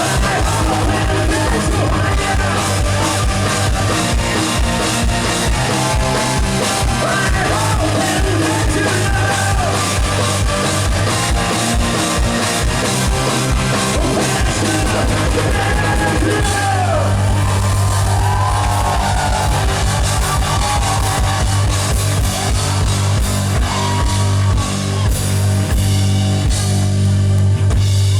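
Live rock band playing loud, with a fast-pounding kick drum, bass, guitar and a male lead vocalist singing long, gliding lines over it.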